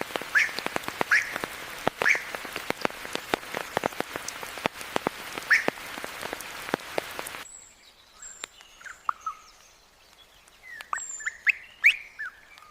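Rain falling in a forest, with many sharp drops striking close by and a few short rising calls. About seven and a half seconds in, the rain cuts off abruptly to a quiet forest with scattered bird chirps and high thin whistles.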